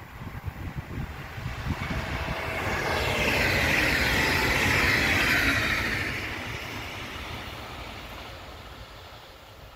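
A train passing on the main line, its wheels and running noise building to a peak about four to five seconds in and then fading away as it recedes.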